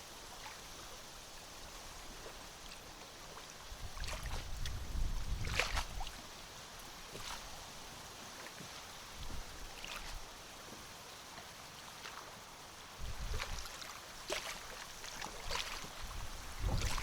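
Water lapping and splashing against a small boat, with gusts of wind rumbling on the microphone about four seconds in, again near 13 s and at the end, and a few light knocks.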